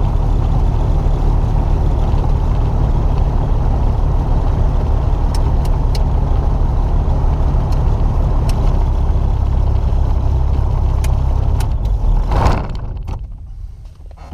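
Small aircraft's engine and propeller running with a steady heavy rumble, with a few sharp clicks. About twelve seconds in the sound swells briefly, then drops away sharply.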